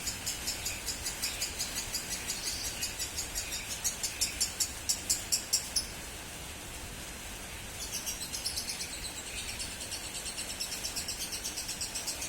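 Lovebird hen chattering in a long, rapid run of high chirps, several a second, loudest just before it breaks off near the middle. After about two seconds it starts again: the nonstop 'konslet' chatter prized in Indonesian lovebirds.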